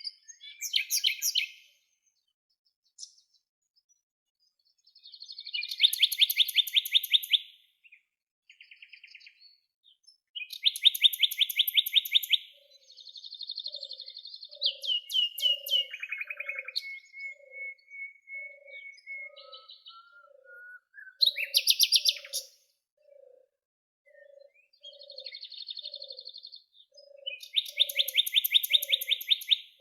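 Several songbirds singing: bursts of rapid trilled chirps, and a whistled note that slides down and then holds. From about halfway a soft low note repeats about three times every two seconds.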